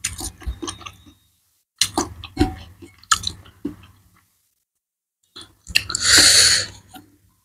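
Close-up chewing of food: wet, clicking mouth sounds in short clusters with brief pauses. A louder, steady noisy sound about a second long comes near the end.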